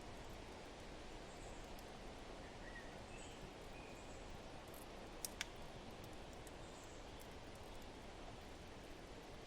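Faint steady rush of wind with a few distant bird chirps, and two sharp pops from the wood fire about five seconds in.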